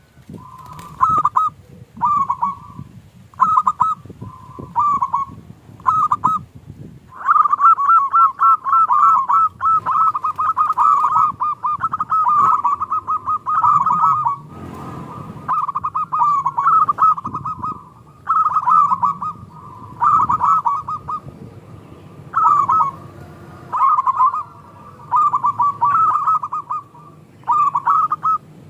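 Zebra doves (perkutut) cooing: short quick bursts of coos roughly every second, then a long unbroken run of coos lasting several seconds, then short bursts again.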